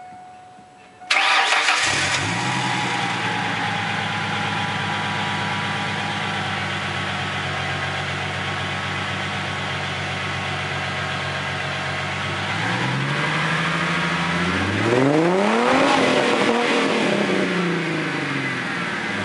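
1997 Ford Mustang's 3.8-litre V6 starting about a second in and settling into a steady idle through a Thrush glasspack muffler. Near the end it is revved once, the pitch rising and then falling back to idle.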